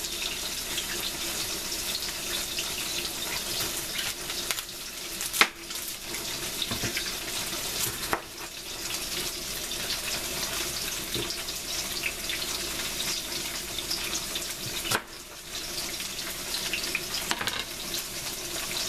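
Tofu frying in oil in a pan with a steady sizzle and crackle; the cook thinks there is too much oil in the pan. A few sharp knocks of a chef's knife cutting an onion on a plastic cutting board stand out, the loudest about five seconds in.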